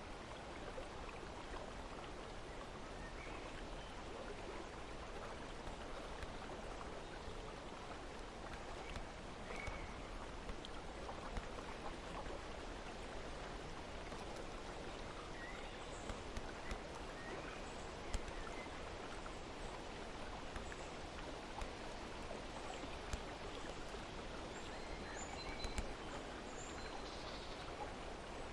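Steady rushing of flowing water, with faint scattered bird chirps that come more often in the second half and a few light clicks.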